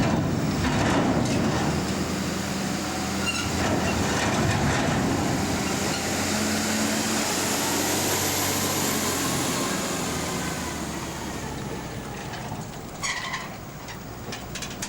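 Steady rumble and rushing noise of a large vehicle or machine, with a low hum underneath, slowly fading over the last few seconds, with a few clicks near the end.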